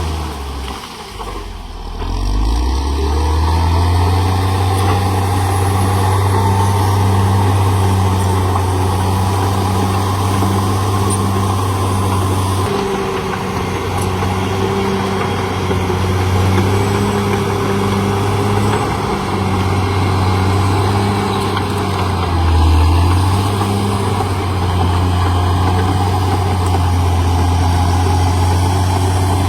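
CAT D6R XL bulldozer's diesel engine working, with a steady low note. The engine dips briefly near the start and climbs back up in pitch, changes note about halfway through, and dips and recovers once more later on.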